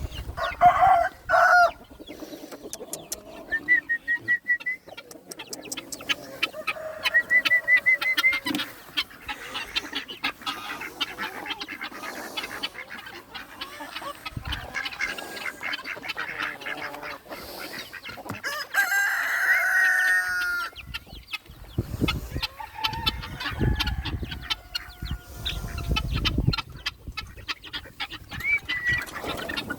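Flock of chickens clucking, with a rooster crowing once about two-thirds of the way through.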